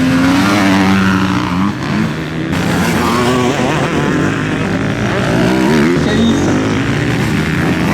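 Motocross bikes racing on a dirt track, their engines revving up and down again and again as they accelerate, shift and back off.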